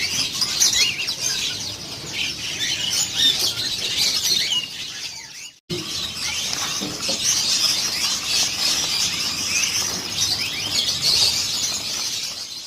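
Many caged songbirds chirping and calling at once: a dense chorus of quick, high chirps and trills. It cuts out for an instant about halfway, then carries on.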